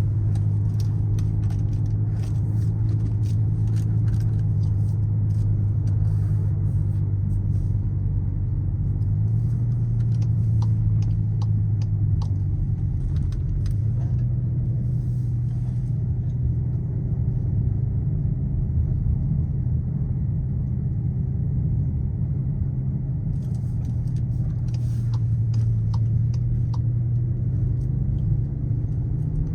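Skoda Kodiaq RS's 2.0 TSI turbocharged four-cylinder engine and exhaust droning steadily while driving at a fairly even pace, with tyre and road noise underneath. The low drone shifts pitch slightly a few times, with a few faint ticks over it.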